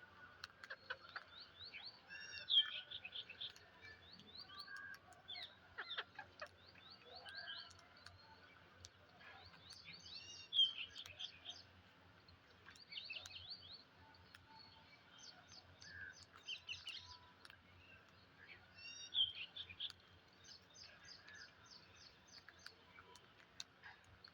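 Parrots chirping: quick runs of short, high chirps throughout, with three louder calls spaced several seconds apart.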